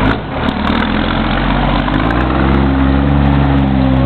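Scania truck's diesel engine running steadily, its note growing stronger and rising slightly a little past halfway.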